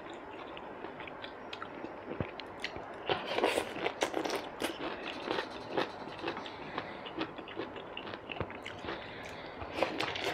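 Close-miked chewing and biting: a person eating braised tuna and pineapple, with many small wet clicks and crunches from the mouth, busiest from about three seconds in.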